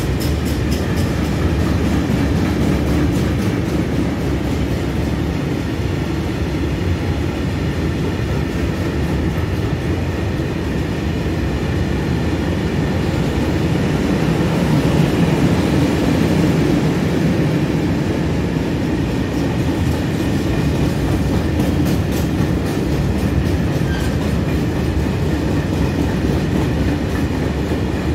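A long freight train of open high-sided wagons rolling steadily past: a continuous heavy rumble of wheels on rails, with runs of rhythmic clicking as the wheels cross the rail joints.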